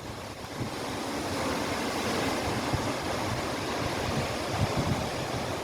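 Strong storm wind gusting with rain, a steady rushing that builds about half a second in, with low buffeting of the wind on the microphone.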